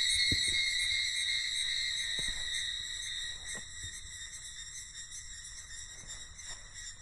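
Steady chorus of forest insects, a continuous high buzzing made of several even tones that is loudest at the start and eases slowly. A few faint low knocks sound underneath.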